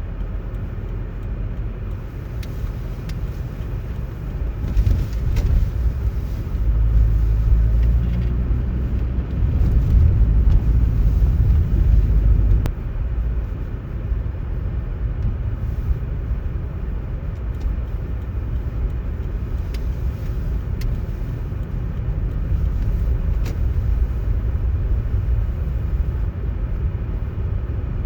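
Low, steady rumble of road traffic, swelling about five seconds in and dropping off suddenly about halfway through, with a few faint clicks.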